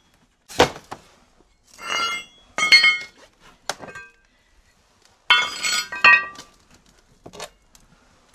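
Loose old steel brackets cut off a crawler's track frames being handled and knocked together: a series of sharp metal clanks, several of them ringing briefly.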